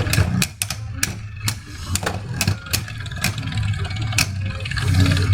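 Beyblade spinning tops whirring in a plastic stadium and clashing, with many sharp clicks of collision at irregular intervals over a steady low hum.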